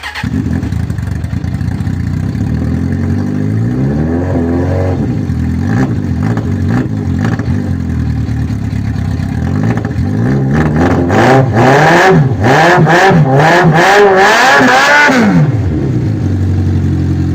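Suzuki Bandit inline-four motorcycle engine running with no exhaust silencer, started cold: it catches right at the start and idles loud and raw. It is revved once about four seconds in, then given a run of quick throttle blips from about ten to fifteen seconds in before dropping back to idle.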